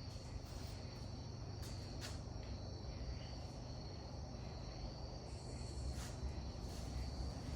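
Crickets chirping steadily in a high, even drone, over a low rumble, with a few faint clicks.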